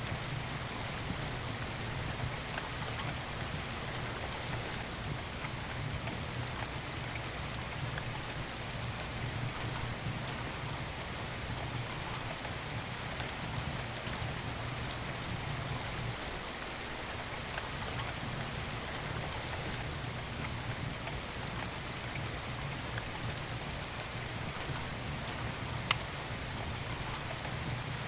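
Steady rain falling, mixed with the faint crackle of a wood fire in a fireplace, with one sharper pop near the end.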